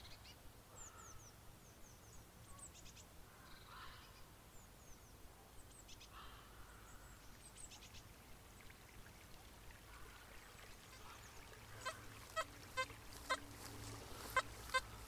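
Faint wild bird calls: short, high chirps falling in pitch, with a few lower calls in between. In the last few seconds comes a run of quick ticks, about three a second.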